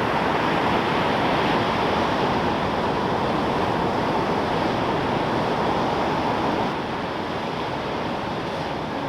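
Heavy surf from a typhoon swell breaking: a dense, steady rush of waves, dropping a little in level about seven seconds in.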